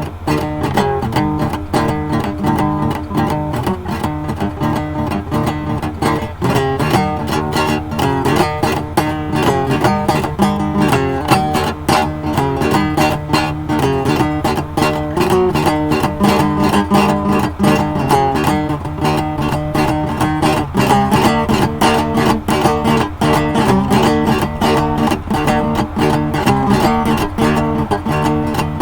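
Guitar music: strummed and plucked guitar playing a steady rhythm, with no singing.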